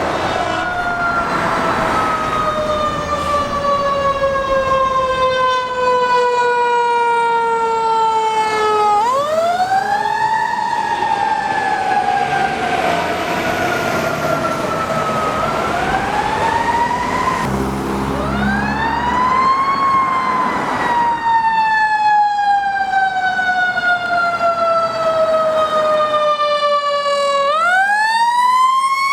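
Fire engine siren wailing. Its pitch sinks slowly over several seconds, then climbs quickly again, four times, with a short low horn blast about eighteen seconds in.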